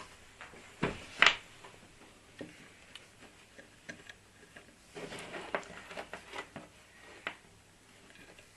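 Scattered small clicks, taps and light knocks of tools and components being handled on a workbench while a replacement capacitor is fitted to a circuit board. The loudest knocks come about a second in, and a cluster of them comes around the middle.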